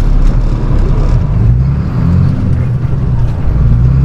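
Flatbed straight truck's engine running while driving, a low steady note that rises and falls in pitch a couple of times, over steady road noise.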